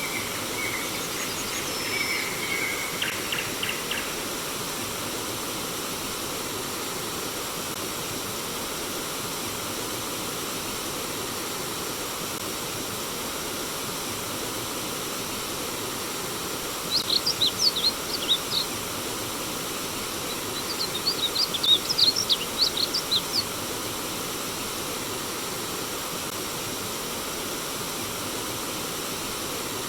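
Steady rush of flowing stream water with birds singing over it: a few calls in the first seconds, then two short bursts of quick, high chirps a little past halfway.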